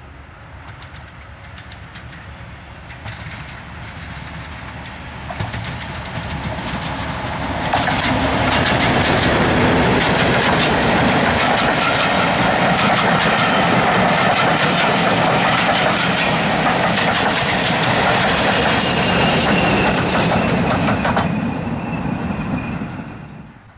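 A diesel locomotive-hauled train approaching and passing, the engine and wheel noise building for several seconds. While it is close, the wheels click rapidly over the rail joints. It fades away near the end and then cuts off abruptly.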